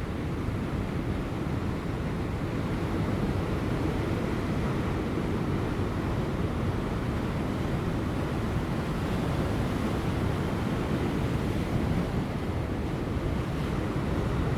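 Ocean waves breaking on offshore rocks just before high tide: a steady, continuous surf wash with no single crash standing out, and light wind.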